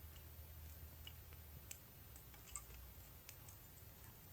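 Faint scattered crackles and ticks from a small campfire of damp wood, over a low steady hum.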